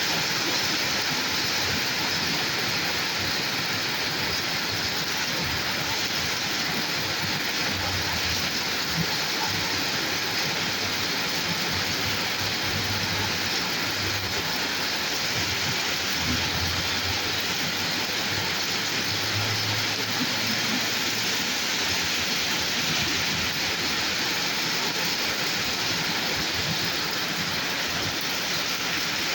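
Steady rain falling on a road, an even hiss without breaks. A low rumble swells and fades through the middle.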